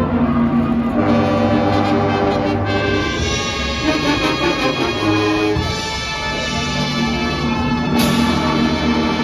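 Marching band playing, with sustained brass chords from trombones and trumpets over low drums.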